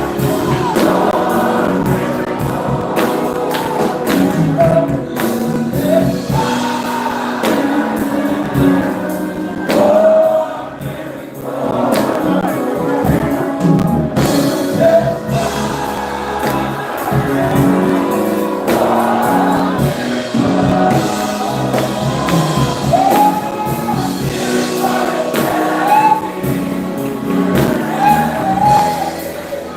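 Live gospel music: voices singing together with instrumental accompaniment and a steady percussive beat.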